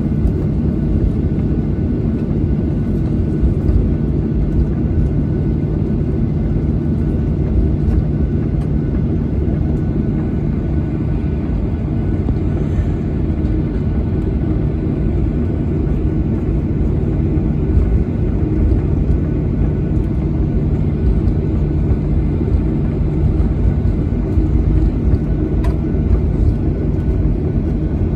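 Boeing 737-800's CFM56 jet engines heard inside the passenger cabin: a steady low rumble with a faint constant hum, unchanging throughout.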